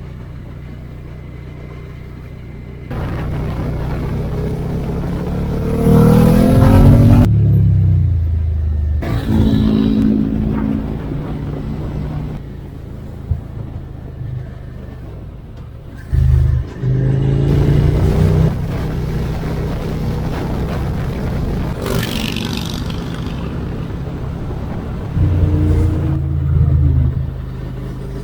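Suzuki SV650X's V-twin engine pulling under acceleration, its pitch rising through the revs several times, mixed with wind and road noise. The sound changes abruptly a few times, as if cut between separate riding clips.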